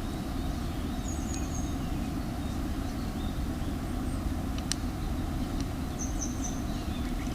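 Small birds chirping in short calls several times over a steady low rumble, with a couple of sharp clicks about two-thirds of the way in.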